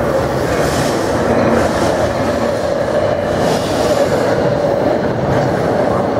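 New Jersey Transit train, an electric locomotive with its coaches, rolling along the platform: a steady rumble of wheels on rail with a constant hum and some hiss now and then.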